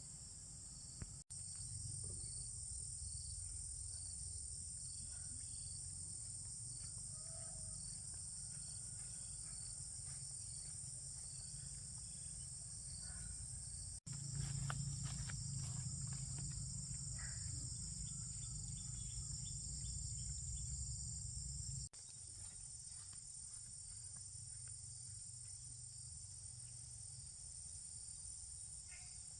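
Steady, high-pitched chorus of insects singing over a low rumble, broken three times by brief cuts.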